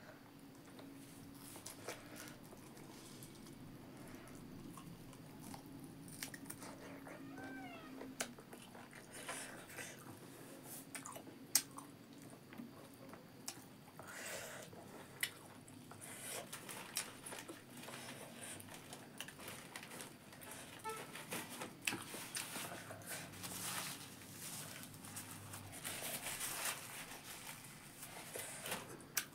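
Close-miked eating sounds: chewing, wet mouth smacks and small crunches from a mouthful of rice and buffalo meat eaten by hand, with scattered short clicks throughout.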